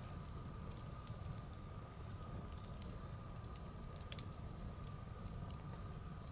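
Wood bonfire burning, with scattered sharp crackles and pops over a low steady rumble. A faint steady tone sits in the background.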